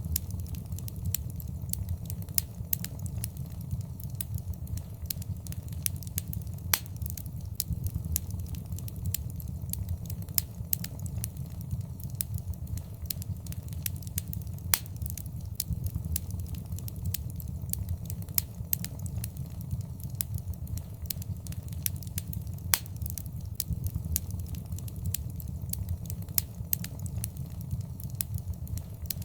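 Wood fire burning in a fireplace: a steady low rumble of flames with dense, irregular crackles and occasional louder pops.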